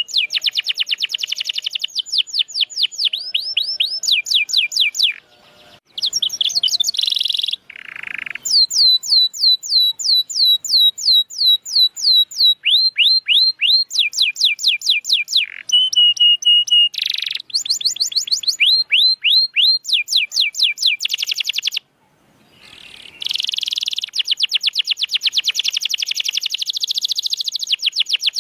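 Domestic canary singing: long, loud rolling trills of rapidly repeated notes that sweep down in pitch, broken by two short pauses, one a few seconds in and one about three-quarters of the way through.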